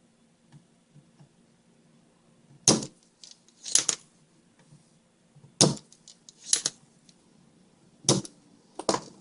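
Sharp clicks in three pairs, the two in each pair about a second apart, made by tools handled while desoldering capacitors from a TV power board.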